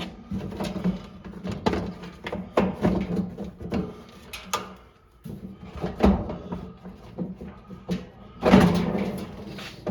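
Irregular knocks and clunks, about one or two a second, the loudest near the end, over a steady low hum.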